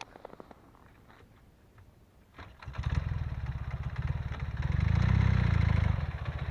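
Ural motorcycle's IMZ-8.103.10 flat-twin engine starting about two and a half seconds in after a quiet stretch, then running with a brief rise in revs around five seconds in before settling back to idle.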